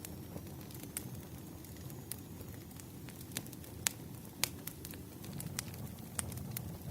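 Bonfire burning: a steady low rumble with sharp, irregular crackles and pops of burning wood, two of them louder just before and after the middle.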